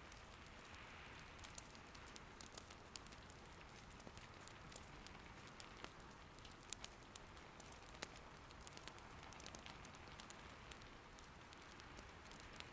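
Quiet, steady rain patter with a wood fire crackling in an irori sunken hearth. A soft hiss of rain runs under scattered sharp pops and ticks, with a few louder pops a little past the middle.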